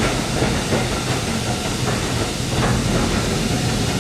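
Steady rumble and rattle of a Swanage Railway steam-hauled train on the move.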